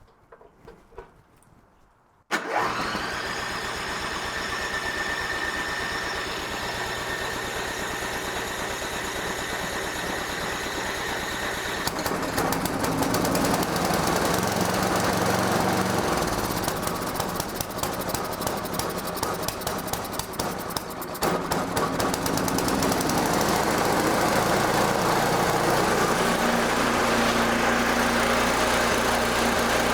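Toro snowblower's small engine started on its plug-in electric starter about two seconds in, then running, its sound changing about halfway through and its speed surging a little, which the owner puts down to the governor holding the RPM after a carburetor rebuild.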